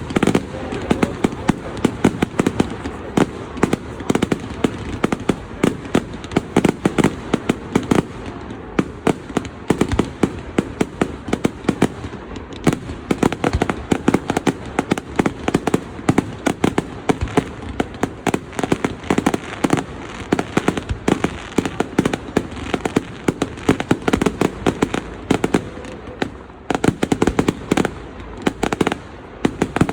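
Display fireworks going off in rapid succession, a dense run of sharp bangs and crackles several a second, with no let-up.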